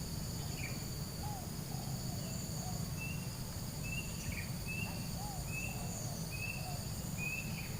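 Night insect chorus: crickets and other insects trilling steadily at a high pitch, with a short chirping call repeated a little more often than once a second from partway through and fainter, lower calls now and then.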